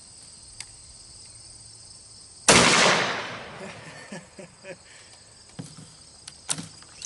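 A single 6.5 Creedmoor rifle shot from a Howa 1500 bolt-action, about two and a half seconds in, its echo dying away over about a second. Insects chirr steadily throughout, and a few light clicks follow the shot.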